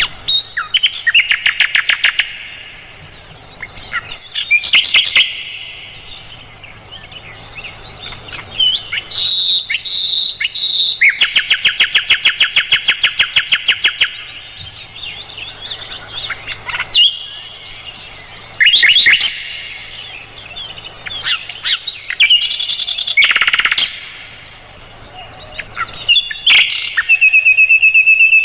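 Sikatan londo flycatcher singing a varied song of chips, short whistled notes and fast rattling trills, with a long rapid rattle a few seconds in. A steady, high whistled note starts near the end.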